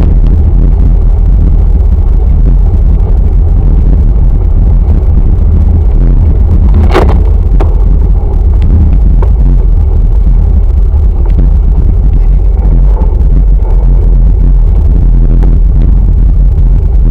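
Wind buffeting the microphone of a camera on a moving bicycle: a loud, steady low rumble, with a sharp click about seven seconds in.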